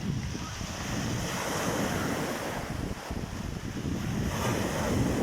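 Rough sea: surf breaking and washing in, in uneven swells, with wind buffeting the microphone.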